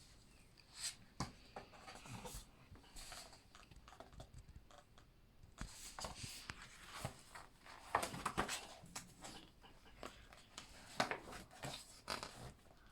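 Quiet rustling and soft taps of paper: book pages being handled and turned, in irregular short swishes.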